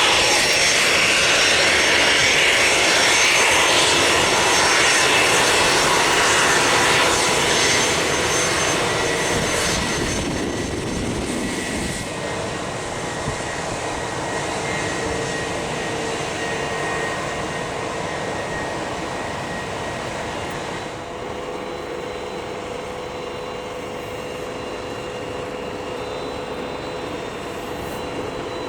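Private jet's engines running with a steady whine. Loud at first, the sound fades over about twelve seconds as the aircraft moves away, then holds at a lower level.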